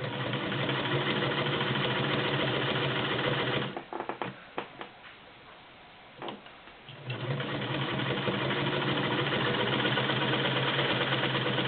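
Singer 128 vibrating shuttle sewing machine stitching through four layers of denim, running steadily, stopping for about three seconds midway with a few clicks, then running again.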